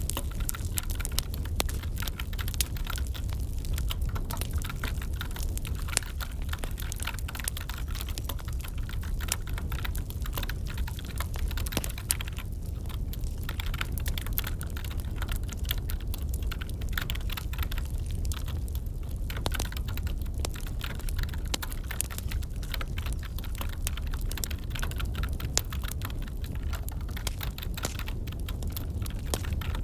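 Wood fire crackling with a steady low rumble, together with computer keyboard typing: a dense run of small sharp clicks that thins briefly a couple of times.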